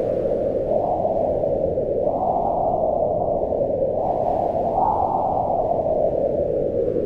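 Wind blowing steadily: a low rushing noise whose pitch swells up and sinks back in slow gusts.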